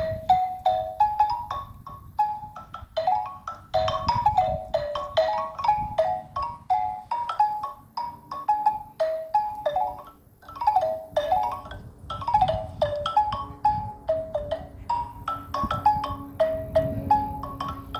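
Xylophone played with mallets: quick runs of struck, ringing notes in the middle register, with a short break about ten seconds in.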